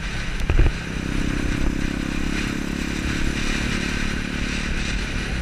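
Motorcycle engine running steadily under a rushing noise, with a single thud about half a second in.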